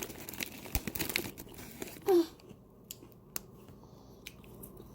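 Light crinkling and scattered small clicks from crunchy chip-coated food and its wrapping being handled, busiest in the first two seconds, with a short vocal sound about two seconds in.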